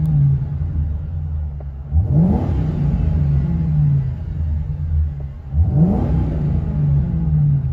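Ford Crown Victoria Police Interceptor's 4.6L V8 through a true dual exhaust with an H-pipe and Flowmaster Flow FX mufflers, heard from inside the cabin. It runs steadily and is revved up sharply twice, about two seconds in and again near the end, each time held briefly before it settles back.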